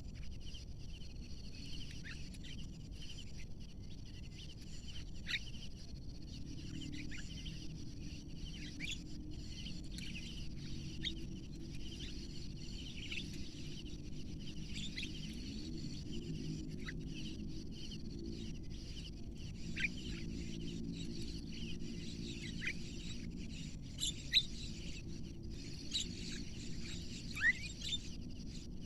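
Birds chirping outdoors: many short, scattered calls over a steady high hiss of insects. A faint low drone joins in about six seconds in and stays under them.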